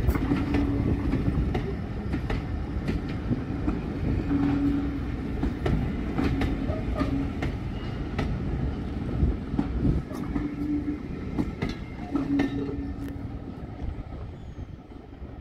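Train of passenger coaches rolling slowly past over jointed track and points: a steady rumble with repeated wheel clicks over rail joints, and a low hum that comes and goes. It fades near the end as the last coach goes by.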